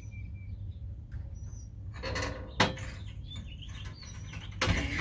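Small birds chirping in short, high calls, one of them falling in pitch at the end, over a low rumble of wind on the microphone. About two seconds in a rustling noise ends in a sharp click, and another rustle comes near the end.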